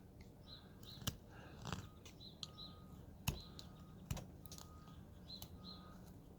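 Hand carving tool cutting into wood, with a few sharp snaps as chips break off, the loudest about three seconds in. Faint short chirps repeat steadily in the background.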